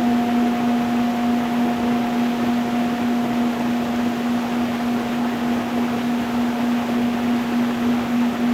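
A singing bowl's low ringing tone held steadily, with a higher overtone slowly fading, over the steady rush of a stream flowing over stones.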